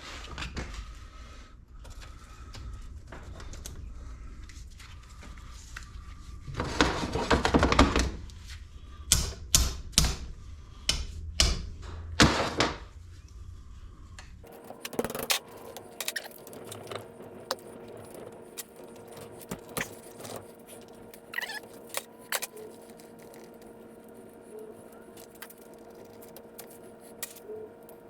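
Hand tools on bolts in metal: a quick run of ratchet clicking, then several sharp metal clanks a second or so apart, followed by lighter scattered clicks of tool handling over a faint steady hum.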